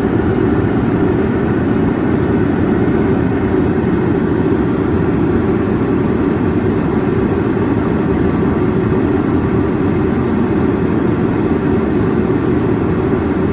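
Steady, loud rumble of a Boeing 777-300ER's GE90 jet engines and rushing air.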